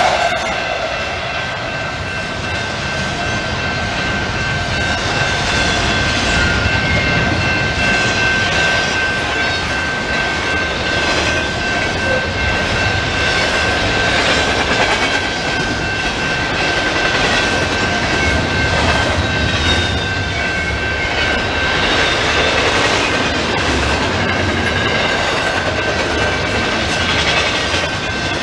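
Freight train passing close by: a Canadian Pacific diesel locomotive running mid-train, then double-stack container well cars rolling past, with wheels clacking over rail joints and a steady high-pitched ring above the rumble.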